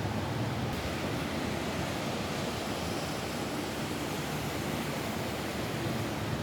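Steady rain falling on a roof, an even, unbroken wash of noise with a heavy low rumble underneath.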